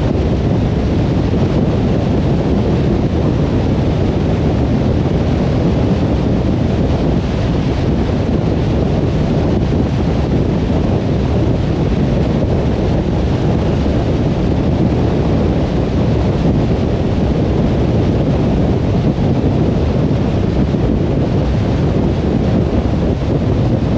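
Steady road noise of a car driving at speed: an even, low rumble of tyres and wind with no changes or distinct events.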